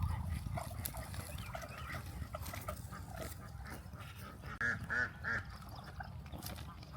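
Muscovy ducks calling: a run of soft, short calls, then three louder short calls in quick succession about five seconds in, over a low rumble.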